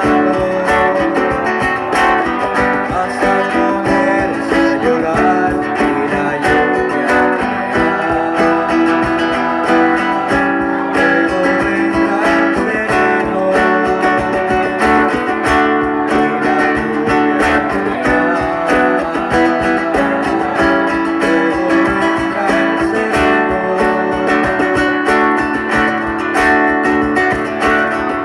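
Guitar music: steady, quickly picked and strummed chords that carry on without a break.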